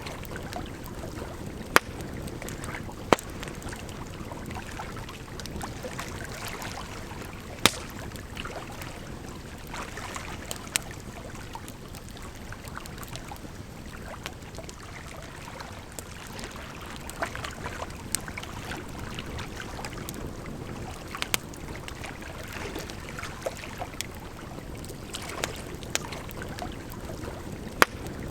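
Campfire crackling, with sharp pops and snaps at irregular moments, over a steady rush of running water.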